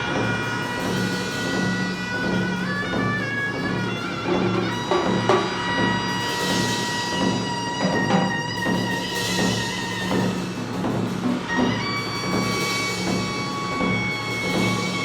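Korean fusion percussion ensemble playing a steady drum pattern under long held melody notes, with sharper drum strikes now and then.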